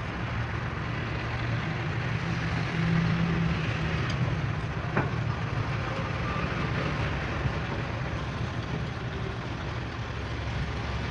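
Truck engine idling steadily with a low rumble, and a single sharp knock about five seconds in.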